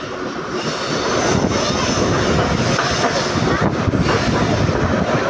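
Passenger train running on the ghat climb, heard from inside a coach: a steady loud rumble of wheels on the rails, growing louder about a second in.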